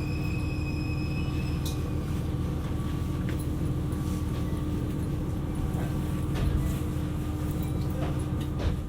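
Inside a KiHa 127 series diesel railcar: a steady low rumble from the diesel engine and running gear with a steady hum over it, and a few light clicks.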